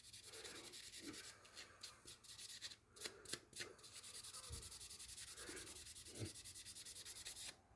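Faint scrubbing on a rusty garden-tool blade to clean off rust and grime: scattered scrapes at first, then quick, even back-and-forth strokes about five a second through the second half.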